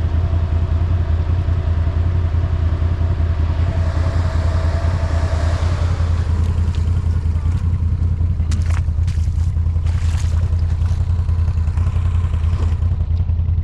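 Off-road vehicle engine running steadily with a deep, even drone. A cluster of short knocks and scrapes comes about two-thirds of the way through.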